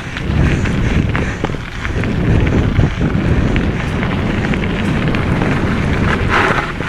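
Wind buffeting the microphone of a camera on a moving mountain bike, a steady rumble with short rattles and knocks from the bike on rough trail, and a brief louder hiss about six seconds in.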